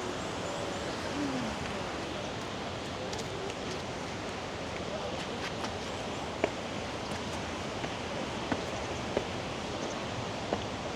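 River water rushing steadily, with a few sharp clicks in the second half.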